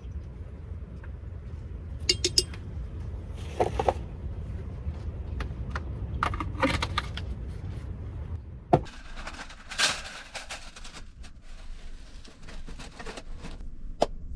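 Scattered clinks and knocks of small hard objects being handled, over a low rumble that stops about nine seconds in.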